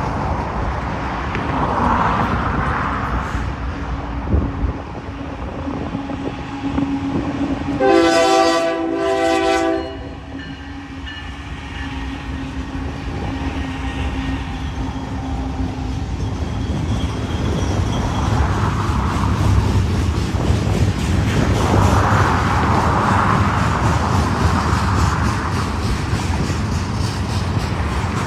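Freight train led by a Union Pacific C45AH diesel locomotive: the locomotive's horn sounds about eight seconds in, a longer blast then a short one. The train's engine and wheels rumble throughout, growing heavier in the second half as the train rolls past.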